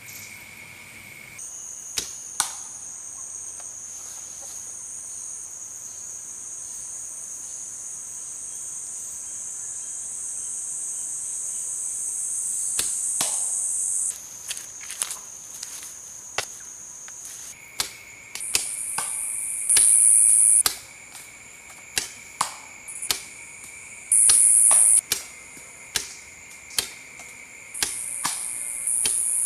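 High, steady insect chirring, with loud buzzing bursts of about a second each in the second half. Sharp clicks or knocks are scattered throughout.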